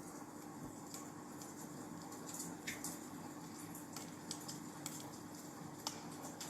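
Wood fire crackling in a fireplace: irregular sharp snaps and pops over a steady hiss, with a faint steady hum underneath.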